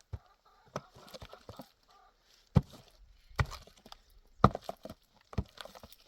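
A series of irregular sharp knocks, about six, a little under one a second, the loudest a little past halfway.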